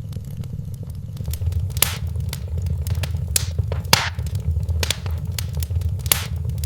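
Wood fire crackling in a fireplace: irregular sharp pops and snaps, several louder ones spread through, over a steady low rumble.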